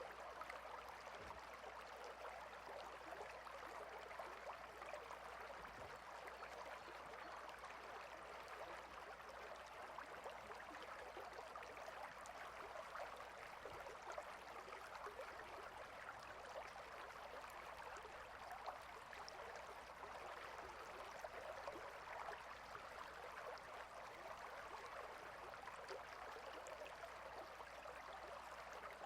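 Stream flowing: a faint, steady rush of running water.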